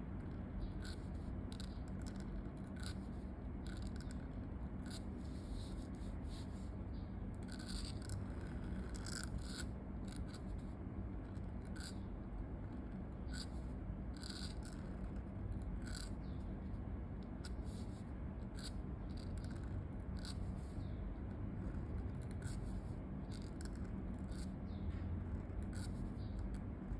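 Scratchy pen nib writing on paper: irregular short scratching strokes over a steady low hum.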